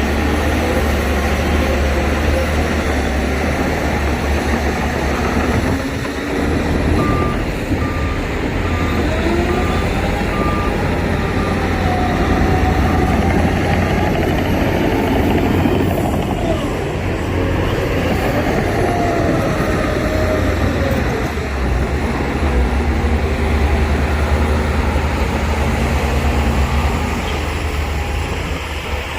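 Heavy diesel construction machinery running, its engines revving up and down. A reversing alarm beeps repeatedly for several seconds about a quarter of the way in.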